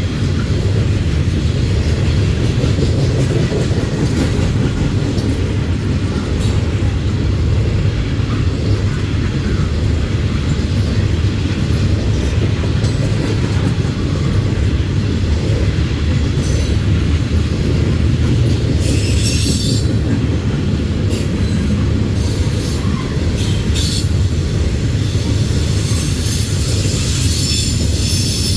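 Freight train of loaded coal gondolas rolling past with a steady heavy rumble of wheels on rail. Short bursts of high-pitched wheel squeal come in the second half, about 16 and 19 seconds in and again near the end.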